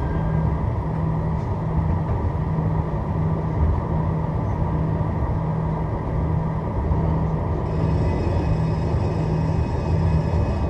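Strasbourg Eurotram running between stops, heard from inside the car: a steady low rumble of wheels and running gear. A high electric whine from the traction equipment comes in about eight seconds in.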